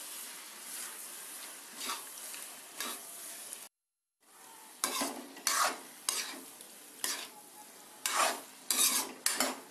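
Paneer pieces being stirred into a sizzling masala gravy in a metal kadai with a steel spoon: a steady frying sizzle with repeated scrapes of the spoon against the pan. The sound cuts out for about half a second a little before halfway, then the stirring strokes come more often.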